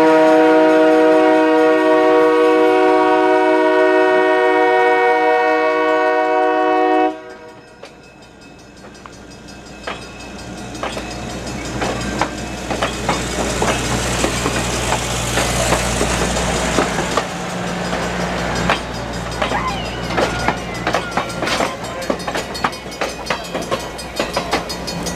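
Train horn sounding one long blast of about seven seconds that cuts off abruptly. Then the train's low running rumble builds, and the wheels click over rail joints as it rolls along.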